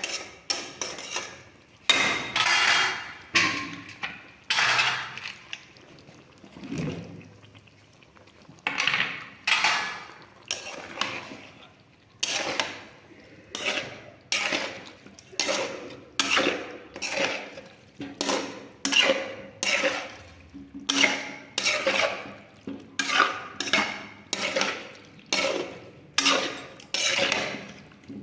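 Metal cooking utensil scraping and clanking against a pot, in repeated strokes about once a second, each fading quickly.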